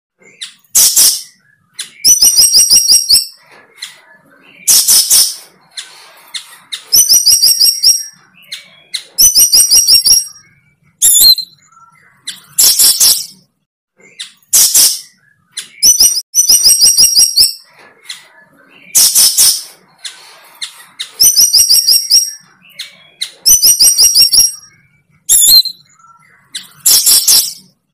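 A bird calling over and over, loud: rapid pulsed trills about a second long alternate with short harsh bursts, the pattern recurring every couple of seconds.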